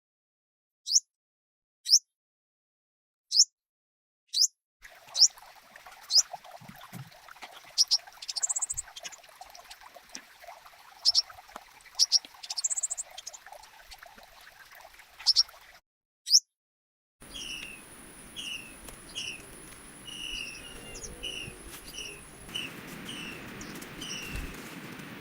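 Songbirds chirping: sharp, high single chirps, a few seconds apart at first and then more often. In the second half a bird repeats short falling notes about twice a second over a steady outdoor hiss.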